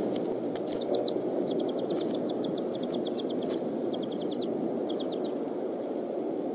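A bird chirping in several quick runs of high-pitched notes, over a steady rushing background noise.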